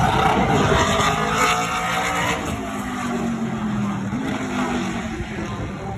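Race car engines running past at speed, the engine note falling in pitch as they go by.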